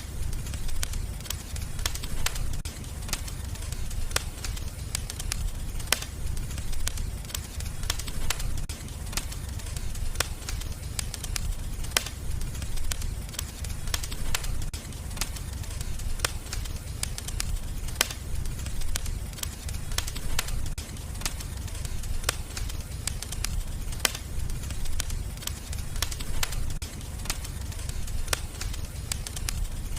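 Wood fire crackling in a fireplace: a steady low rumble of flames with sharp pops and snaps scattered irregularly throughout.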